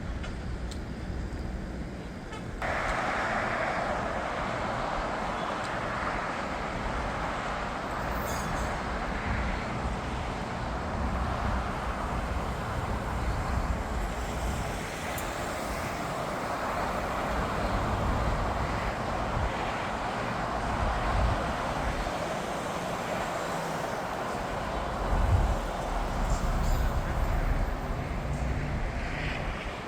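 Jet aircraft engine noise: a steady rushing roar that starts abruptly about two and a half seconds in, with wind buffeting the microphone as a low, gusty rumble.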